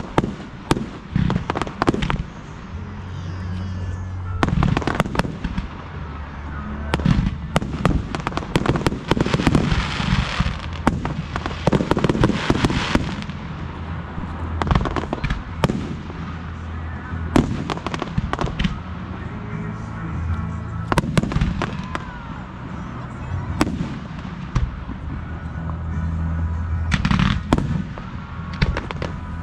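Fireworks display: a long run of loud shell bursts and bangs, irregularly spaced, with a stretch of dense crackling about a third of the way in.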